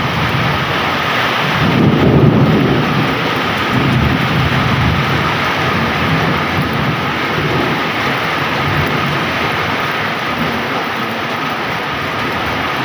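Heavy rain pouring down steadily, with a low roll of thunder swelling about two seconds in and rumbling on more faintly after.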